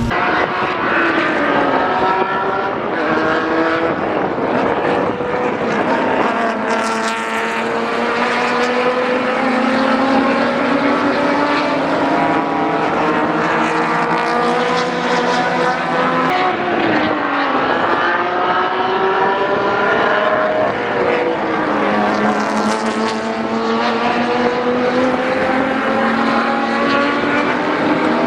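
Race car engine under hard driving, its pitch climbing slowly through long pulls and dropping sharply twice, around the middle and again a few seconds later.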